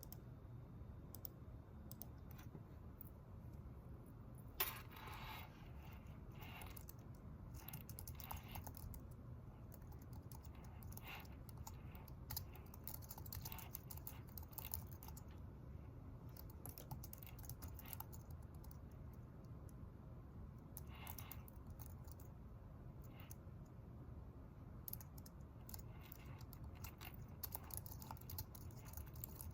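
Faint typing on a computer keyboard: irregular runs of keystrokes over a low, steady room hum, with one sharper click about four and a half seconds in.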